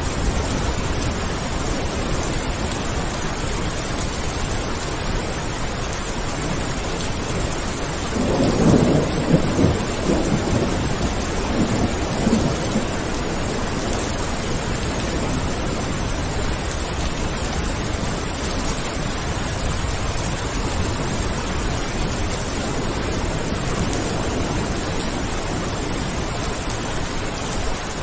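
Steady rain with a rolling rumble of thunder about eight seconds in, swelling twice over some five seconds before fading back into the rain.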